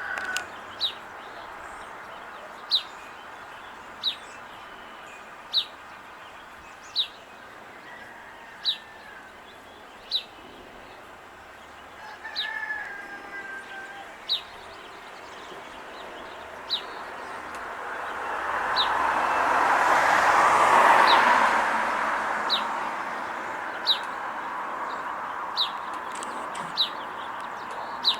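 A small bird repeats a sharp, high chip note about every one and a half seconds. A faint pitched call comes about 12 seconds in, and a broad rushing noise swells and fades about two-thirds of the way through.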